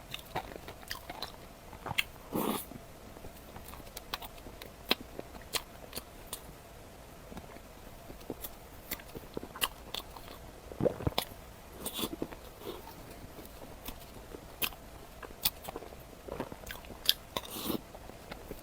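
Close-miked eating: bites and chewing, with irregular sharp clicks and crunches and a few louder bites scattered through.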